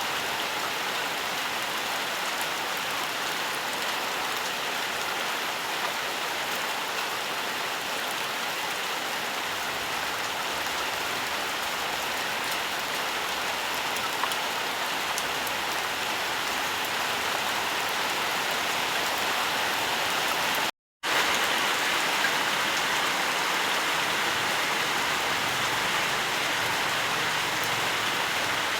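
Steady rainfall: a dense, even hiss of rain on surfaces with scattered faint drop ticks. The sound cuts out completely for a split second about three-quarters of the way through, then resumes a little louder.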